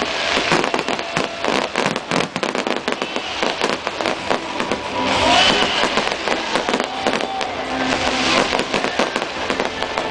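Aerial fireworks going off: a dense, continuous run of bangs and crackles in quick succession.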